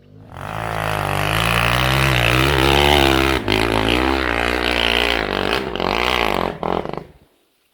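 Enduro motorcycle engine revved hard and held at high revs, its pitch wavering up and down as the bike fights its way over the obstacle, then cutting off about seven seconds in.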